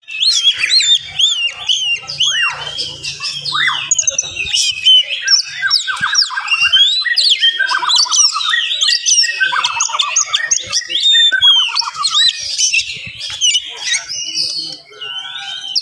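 Oriental magpie-robin (kacer) singing a fast, dense, unbroken song of varied whistles, slurs and chirps.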